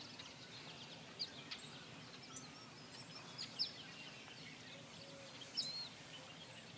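Faint chorus of small birds: many short, high chirps and slurred whistled notes from several birds, over a steady outdoor hiss, with a few louder notes standing out about a second in, in the middle and about two-thirds through.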